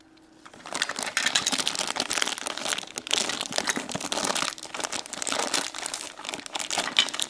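Plastic toy packaging crinkling and crackling as it is handled and pulled open, starting about half a second in.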